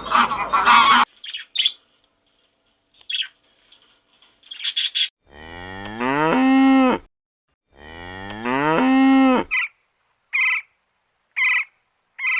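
Cow mooing twice: two long calls, each rising in pitch and then held. A few short, higher calls about a second apart follow near the end.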